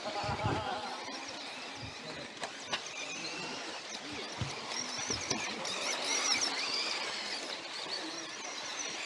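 Electric radio-controlled off-road buggies running on a dirt track: a high motor and gear whine that rises and falls as they speed up and slow down, with a few sharp knocks.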